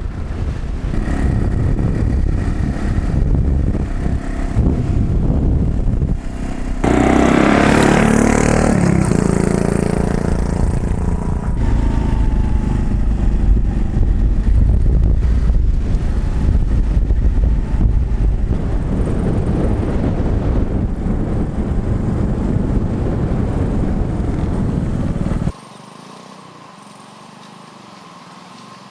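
Motorcycle being ridden, its engine running under a heavy rumble of wind noise. About 7 seconds in, the engine note swells and bends in pitch for a few seconds. Near the end the sound drops suddenly to a much quieter hum.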